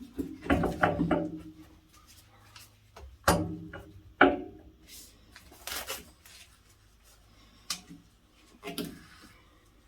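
Tools and parts being handled during plumbing work: a series of separate clanks and knocks, the busiest cluster about a second in and two more sharp ones around three and four seconds in, with a brief scraping hiss near the middle.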